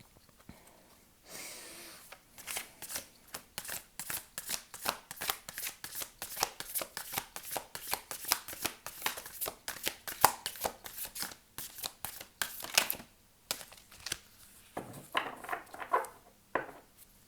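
A deck of oracle cards being shuffled by hand: a run of crisp card snaps, about three a second, for some ten seconds, followed by a few softer card-handling sounds near the end.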